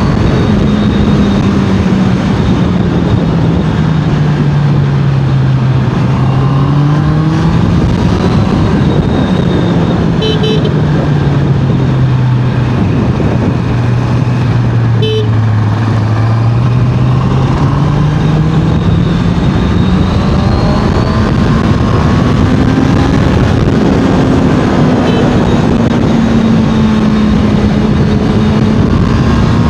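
Honda CBR650R inline-four engine and exhaust under way, its pitch slowly dropping and climbing again as the road speed changes, over steady wind rush. Two short horn toots sound about ten seconds in and again about five seconds later.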